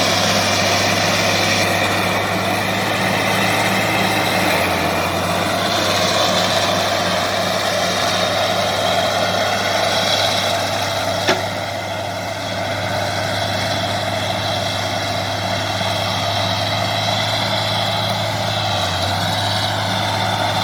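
Bulldozer's heavy diesel engine running steadily with an even hum, and a single sharp click about eleven seconds in.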